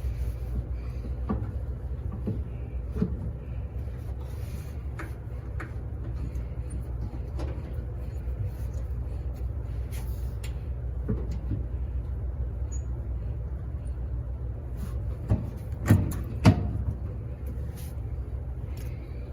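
Steady low hum of laundromat machines running, with scattered light knocks and two louder clunks about three-quarters of the way through, typical of panels or parts being handled during a washer repair.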